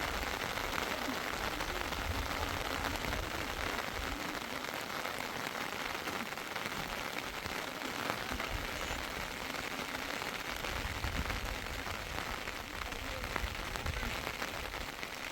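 Steady heavy rain falling, a dense patter of drops, with a low rumble that comes and goes.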